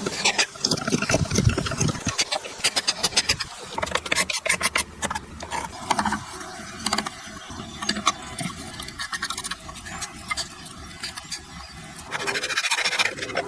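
Woodworking tool work: a rapid, irregular run of clicks and knocks, densest in the first few seconds and sparser after.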